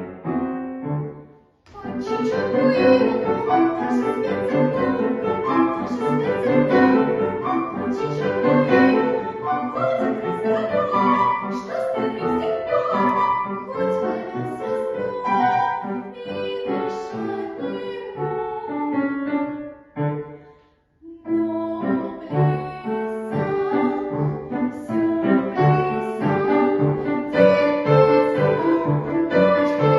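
Classical piece played on piano with a solo melody line above it. The music pauses briefly twice, near the start and about two-thirds of the way through.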